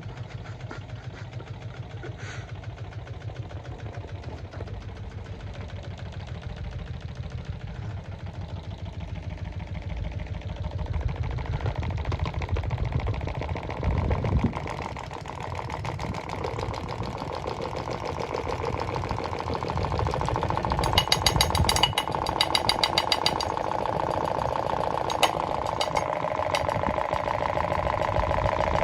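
A plugged-in electric device running with a rapid, engine-like chugging and knocking that slowly grows louder. A steady whine builds in over the second half, and there is a short spell of sharp clattering about two-thirds of the way in.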